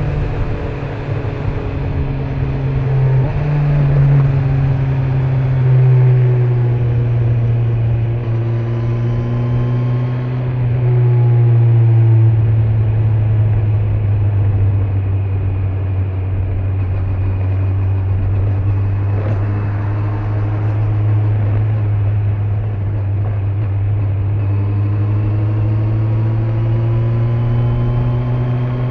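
Kawasaki Z900's inline-four engine on the move with its stock exhaust, heard from the rider's back with road and wind rush. Three times in the first twelve seconds its pitch climbs and drops back, like upshifts under acceleration. It then holds a steady cruise and climbs gently again near the end.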